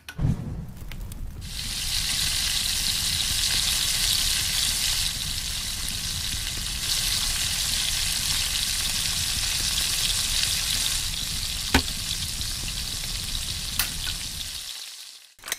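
Food frying in hot oil: a steady sizzle that builds over the first second and a half and stops just before the end, with two sharp clicks near the end.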